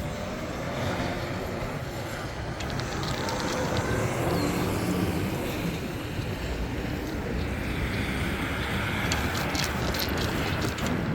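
Steady rumble of wind and road noise while riding a bicycle, with a few light clicks or rattles near the end.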